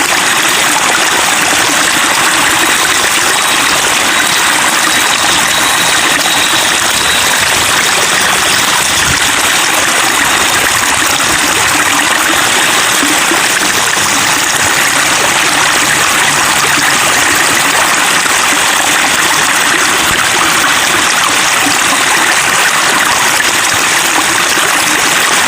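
Steady babbling of flowing water, an even, unbroken rush with no pauses or changes.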